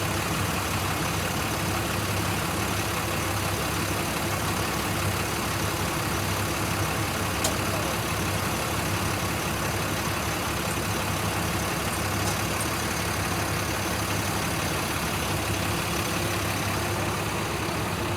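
Engine idling steadily with an even low hum. A single light click sounds about seven and a half seconds in.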